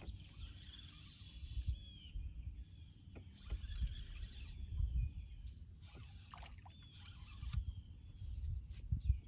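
Steady high-pitched insect drone of crickets, with scattered low knocks and thumps as a hooked bass is brought to a kayak.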